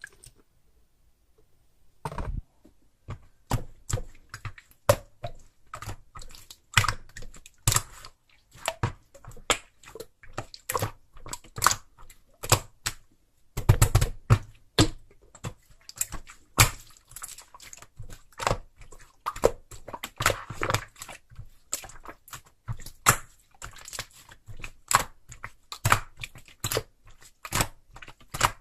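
Irregular sharp clicks and taps of small objects being handled, about one or two a second, starting about two seconds in.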